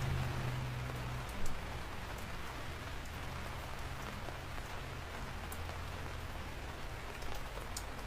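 Steady heavy rain falling on surfaces, with occasional sharp drip ticks. A low hum fades out about a second in, and there is a single thump about a second and a half in.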